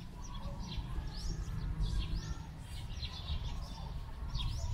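Birds chirping in quick short repeated calls, a few each second, over a steady low rumble.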